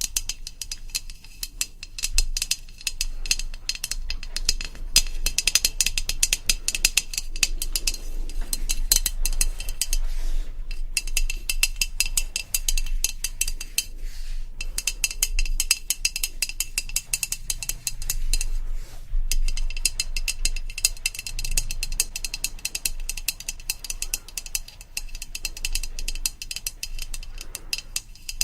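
ASMR tapping on a hard object: a fast, dense run of small crisp clicks, broken by a few brief pauses.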